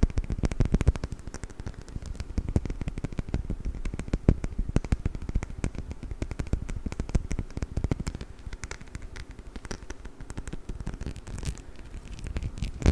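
Rapid tapping and scratching on a perfume bottle: a dense, fast run of small clicks, many a second, for ASMR.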